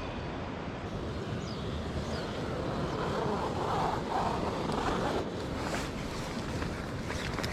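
Steady rushing wind noise on the microphone, swelling a little midway, with two faint high chirps about a second and a half in.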